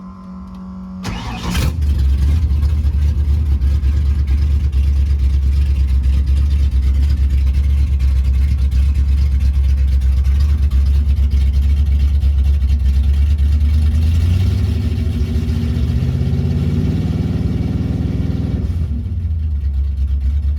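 Ford 5.0 V8 of a 1986 Mustang GT, with a ported intake, a performance cam and long-tube headers, starting up about a second in and then idling loud and steady. Near the end it is revved up gradually and falls back to idle.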